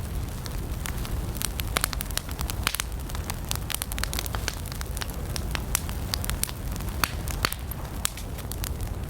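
Wood campfire burning, with many irregular sharp crackles and pops over a steady low rumble of the flames.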